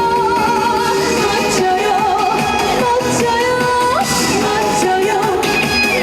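Trot song sung live: a solo voice holding and sliding between notes with vibrato over amplified backing music with a steady beat.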